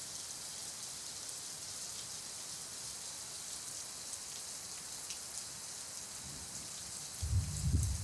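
Steady hiss of heavy monsoon rain pouring down, with a brief low rumble near the end.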